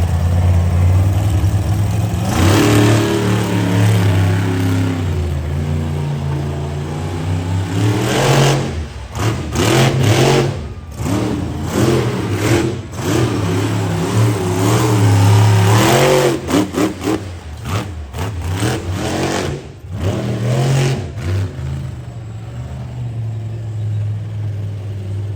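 Monster truck engine revving hard through a freestyle run, its pitch climbing and falling again and again. Midway there are stretches of quick throttle blips and cut-outs, and it settles into steadier running near the end.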